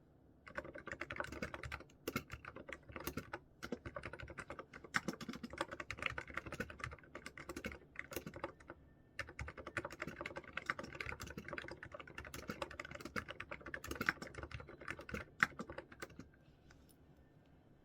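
Typing on a computer keyboard: quick runs of keystrokes with a few short pauses, stopping a couple of seconds before the end.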